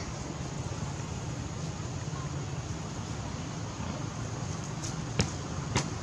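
Steady outdoor background noise with a low rumble, broken by two sharp clicks about half a second apart near the end.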